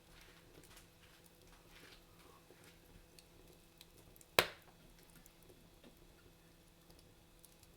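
Wood fire crackling in a fireplace: faint, scattered small pops and ticks, with one loud sharp pop a little over four seconds in.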